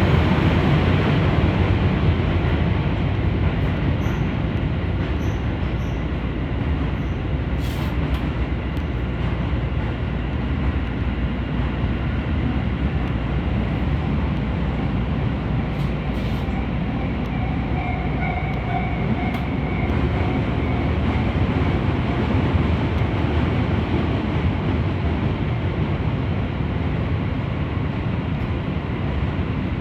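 Keisei 3000-series electric train running along the track: a steady low rumble of wheels on rails, with a faint high whine for a few seconds past the middle.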